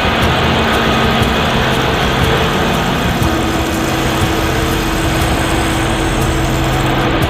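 Loud, steady din of a ship's engine room machinery running, with a few steady hum tones over a dense rumble; a new hum tone joins about three seconds in.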